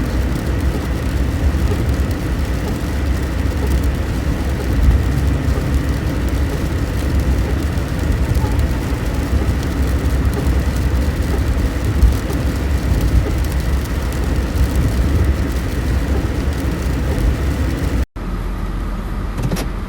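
Steady low rumble of a car on the move, heard from inside: road and engine noise with no clear events. It breaks off abruptly about 18 seconds in.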